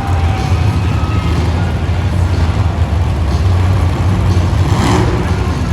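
Demolition derby car engines running with a deep, steady rumble, one revving up with a rising pitch near the end.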